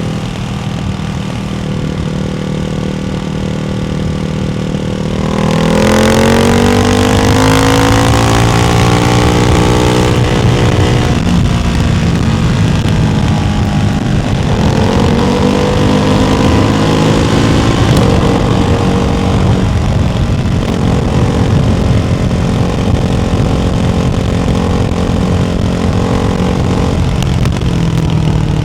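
Ducati Hypermotard 698 Mono's single-cylinder engine through a baffled Termignoni exhaust. It runs steadily, then about five seconds in grows louder and climbs in pitch for several seconds as it accelerates. It dips briefly, holds a steady higher note, and eases off near the end.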